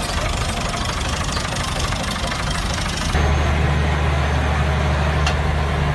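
Tractor engine running steadily. About three seconds in, the sound changes abruptly to a deeper, steady low drone.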